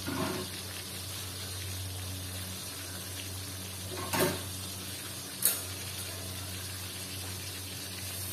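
Chilli paste and oil frying in a wok, a steady sizzle and bubbling over a low, even hum. Two sharp clicks come about four seconds in and a second and a half later.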